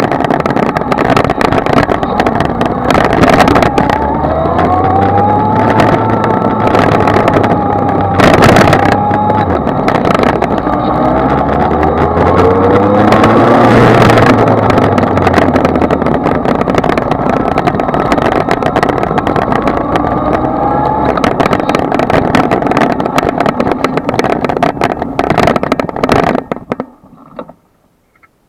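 Kawasaki Z1000's inline-four engine running on the move under heavy wind noise, its pitch rising and falling with the throttle. The sound cuts off shortly before the end.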